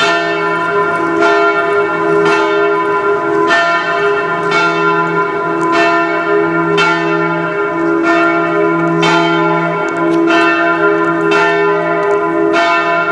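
Church bells ringing, a struck stroke about once a second over a steady ringing hum.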